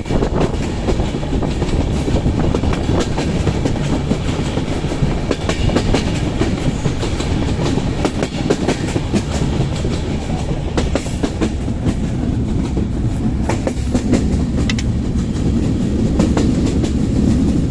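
Passenger train carriages rolling past without stopping, the wheels clattering over rail joints in a steady run of clicks over a continuous rumble.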